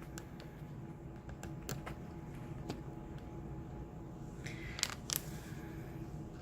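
Scattered light clicks and taps from handling small plastic kit pieces (cups and scoop), a few louder ones together near the end, over a low steady room hum.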